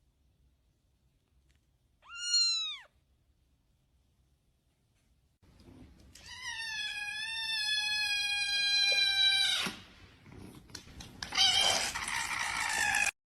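Domestic cat meowing: one short, high meow about two seconds in, then a long, drawn-out wavering meow, and near the end a rougher, harsher yowl that cuts off suddenly.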